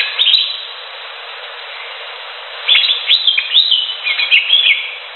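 Green leafbird (cucak hijau) singing. A brief flurry of quick whistled notes comes right at the start, then a longer run of rapid, sharply rising and falling phrases from a little under three seconds in, over a steady background hiss.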